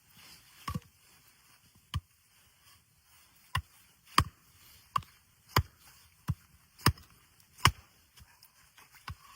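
Wood being chopped: about ten sharp strikes at uneven intervals, roughly one a second.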